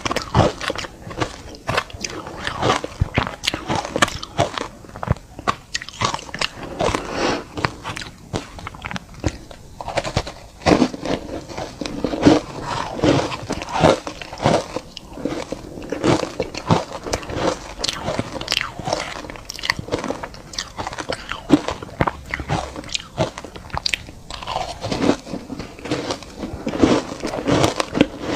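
Close-up crunching and chewing of ice chunks dusted with matcha powder: repeated bites and dense, irregular crackly crunches.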